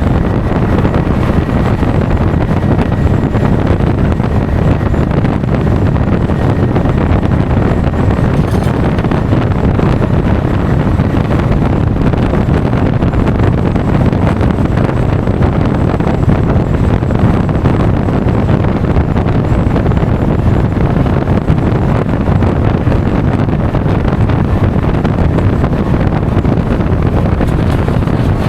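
Loud, steady wind rush on an action camera's microphone while riding a Honda Forza 350 scooter at speed, with the scooter's running noise blended underneath.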